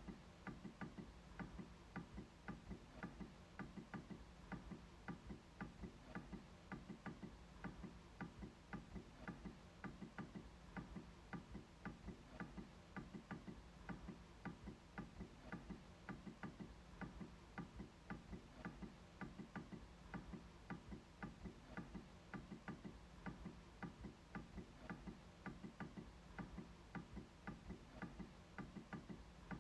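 MacBook trackpad being clicked over and over, a steady run of sharp, quiet clicks a few times a second.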